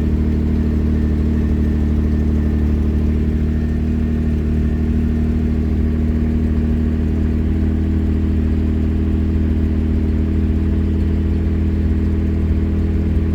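1964 Jaguar E-Type's straight-six engine idling steadily just after a cold start, on choke.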